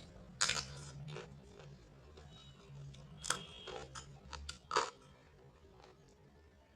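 A person chewing food close to the microphone, with several sharp, crackly crunches and smacks scattered through the mouthful; the loudest come about half a second in and a little before the end.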